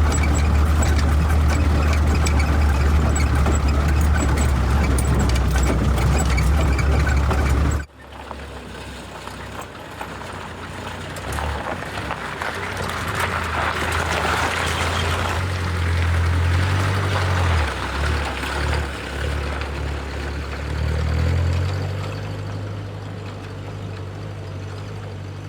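A steady low machine hum, like a motor running, that stops abruptly about eight seconds in, followed by a quieter low hum that wavers in pitch.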